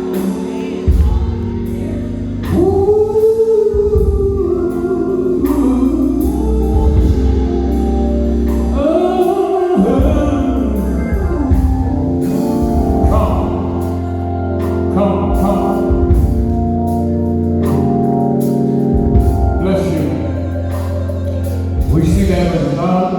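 Gospel singing over organ chords, a sung melody held and bending over steady sustained harmonies.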